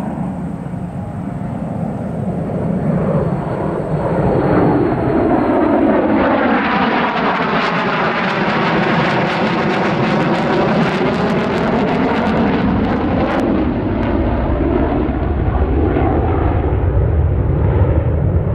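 B-2 Spirit stealth bomber's four turbofan jet engines passing overhead: a steady jet rush that grows louder about four seconds in, with a crackling edge and a swirling, phasing sweep as it goes over mid-way, staying loud to the end.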